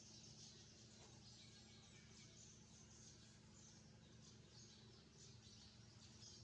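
Faint, rapid high chirping of young birds about 26 days old, over a steady low hum.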